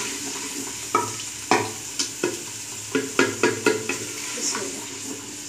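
Tomatoes, garlic and spices sizzling in hot oil in a clay handi as a ladle stirs them. The ladle knocks and scrapes against the pot's sides in a quick irregular run of clicks over a steady hiss of frying.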